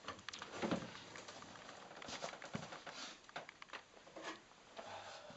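Faint scattered light clicks, knocks and rustling of people moving about and handling things in a small room.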